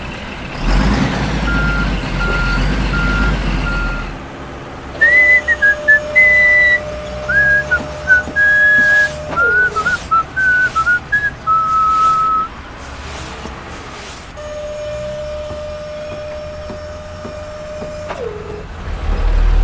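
A truck engine runs with a reversing beeper sounding in evenly spaced beeps. Then comes a wavering whistled tune over a steady hum, and the steady hum returns near the end.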